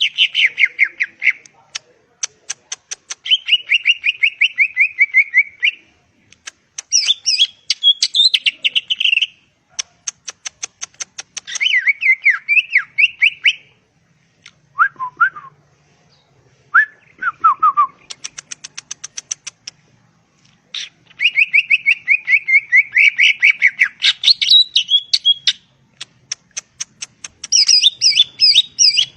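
Cucak ijo (green leafbird) singing: a run of varied, loud phrases of fast trilled notes mixed with rapid sharp ticking chatter, with short pauses between phrases.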